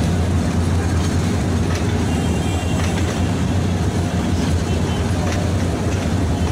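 Diesel-hauled passenger train of Bangladesh Railway rolling along the tracks: a steady low rumble with scattered wheel clicks over the rails, and a faint high wheel squeal two to three seconds in.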